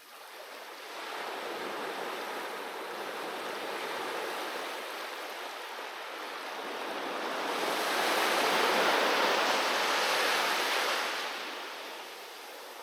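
Sea waves washing onto a beach: the surf rises from about a second in, swells to its loudest around eight to eleven seconds, then draws back and fades near the end.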